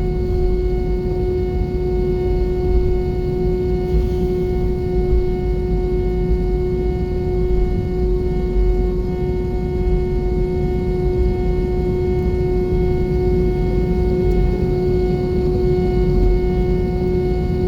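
Airbus A320 cabin noise: a steady drone of the jet engines and air systems with a low rumble and a constant hum, unchanging throughout.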